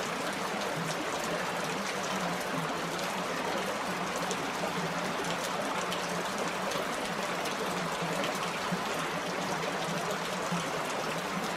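Small creek running steadily down a rock slide into a deep pool: an even, unbroken rush of water.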